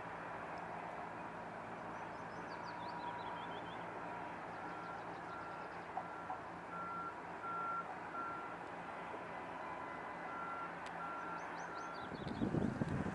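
Electronic warning beeper sounding a steady series of short beeps, about two a second, over the low steady hum of mining machinery. Near the end, wind buffets the microphone.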